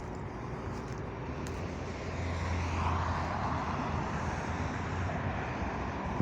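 Road traffic: a motor vehicle passing, its noise swelling about two seconds in and loudest around three seconds, over steady traffic hum.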